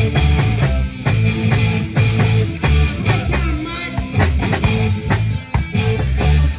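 Live rock band playing: electric guitar, bass and drums keeping a steady beat.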